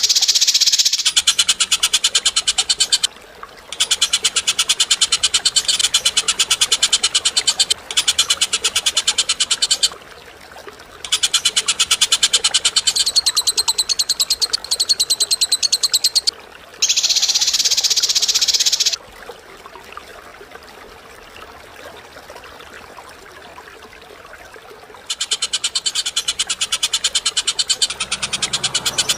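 A bird giving harsh, very rapid rattling chatter, high-pitched, in runs of a few seconds broken by short pauses. There is a quieter stretch in the middle before the rattling starts again near the end.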